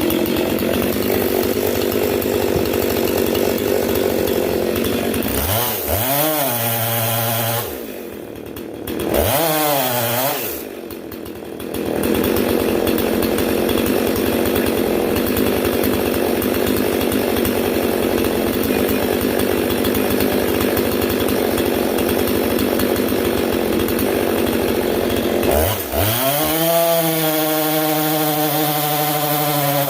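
Husqvarna 262 two-stroke chainsaw cutting firewood logs at full throttle on a freshly filed chain. It eases off toward idle and revs back up twice, about six and ten seconds in, then cuts steadily, and revs high again near the end.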